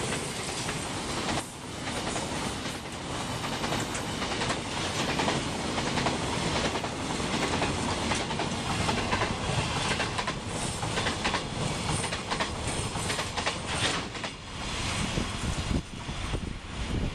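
Freight train wagons rolling past at close range, their wheels clattering over the rail joints in a steady rumble. The sound drops away near the end as the last wagon passes and recedes.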